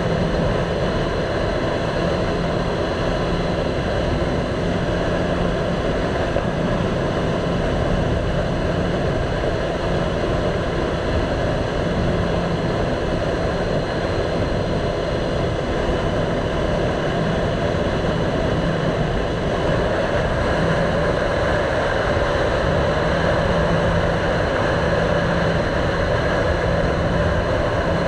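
Motorcycle engine running at a steady cruise under a continuous rushing noise from riding.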